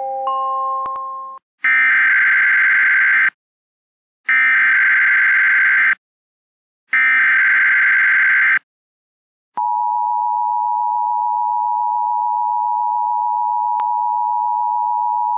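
Emergency Alert System signal on a radio broadcast. A short stepped run of electronic tones ends about a second in. Then come three loud, buzzy digital SAME header data bursts, each under two seconds with about a second's gap. From about halfway through, the steady two-tone EAS attention signal begins and holds.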